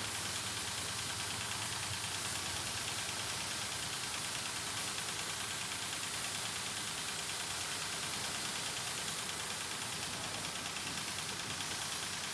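Steady hiss of a water spray jet with a low motor hum underneath, unchanging throughout.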